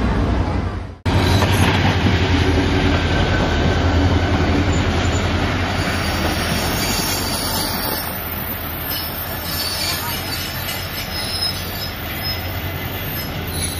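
Diesel-hauled passenger train passing close by: a loud, deep steady rumble from the GMU-30 locomotive and its coaches rolling past on the rails, easing slightly in the second half. The sound starts abruptly about a second in, after a brief cut.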